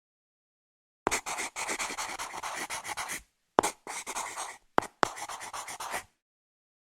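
A drawing tool scratching across paper in quick, repeated strokes, starting about a second in, in three runs separated by brief pauses, each run opening with a sharp tap of the tip on the paper.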